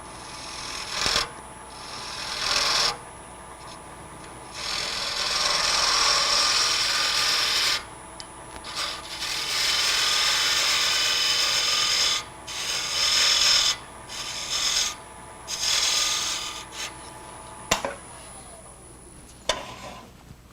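A turning tool cutting into hard maple spinning on a wood lathe, hollowing out the nib left in the middle of the bead hole: a series of hissing cuts of one to three seconds each. Two sharp clicks near the end.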